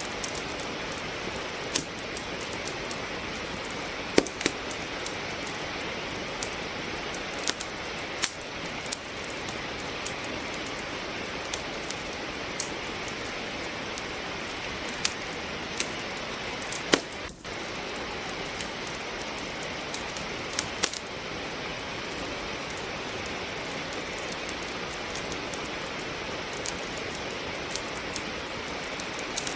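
Steady rain hiss with irregular sharp pops and crackles from logs burning in a fireplace.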